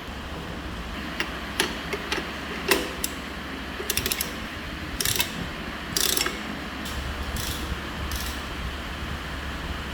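Mechanical clicks and short rasping scrapes over a steady low hum: small parts and hand tools being worked on a fan under repair. The clicks come in the first three seconds and the scrapes follow at about four, five and six seconds in.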